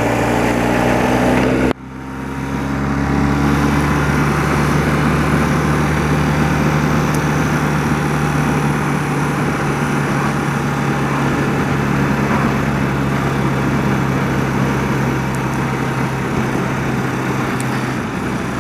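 A 30-year-old BMW motorcycle's engine running at a steady pitch while under way, with a sudden brief break in the sound a little under two seconds in, after which it builds back up.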